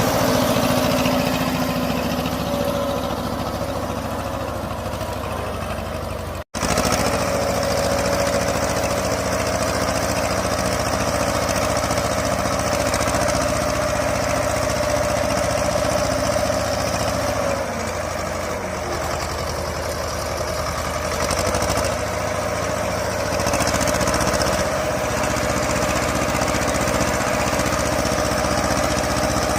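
Escorts 335 tractor's three-cylinder diesel engine running steadily, cut off for a split second about six and a half seconds in.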